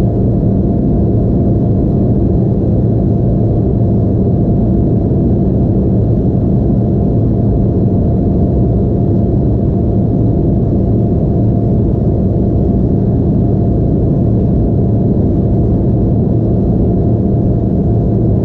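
Steady cabin noise inside an Embraer E175 regional jet: a loud, even rumble of its GE CF34 turbofans and airflow, with a faint steady hum and no change in pitch.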